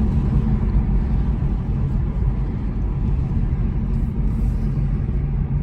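Steady, loud low rumble of a motor vehicle, with a constant hum in the bass and no change in pitch.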